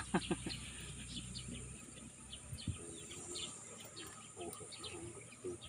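Small birds chirping in many short, quick calls, over a steady high-pitched insect drone.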